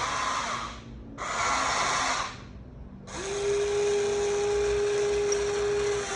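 Huina 1593 RC excavator's electric motors whirring in stop-start runs. One run cuts off just under a second in and another lasts about a second. A longer run starts about three seconds in, with a steady whine.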